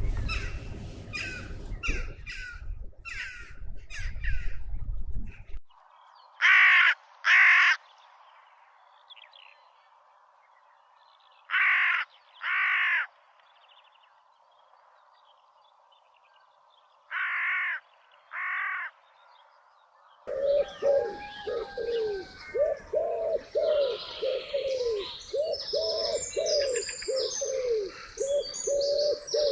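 Birds calling. Quick chirps over a low rumble give way to loud, harsh calls in pairs, three pairs about five seconds apart. Near the end a busy chorus of many birds takes over, with fast repeated low notes under higher chirping.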